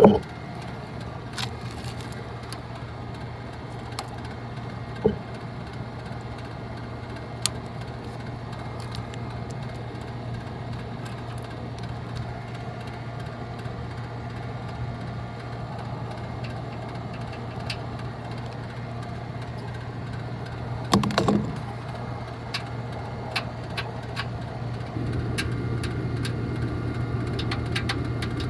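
Scattered clicks and knocks of hand tools and metal parts while an HVAC package unit's blower section is taken apart to replace a failed blower motor, with a short clatter about two-thirds of the way through. A steady low hum runs underneath throughout.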